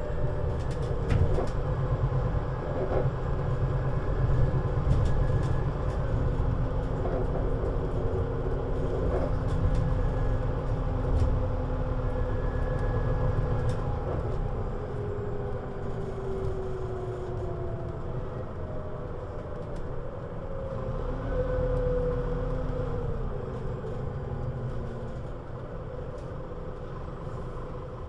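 Scania Citywide LFA articulated city bus (CN320UA 6x2/2) running, with a steady low rumble. Several whining tones slide down in pitch over the second half.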